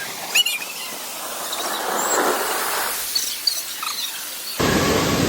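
Open-air water park ambience with a few brief, high squeaks, then a louder steady rush of water that cuts in suddenly near the end.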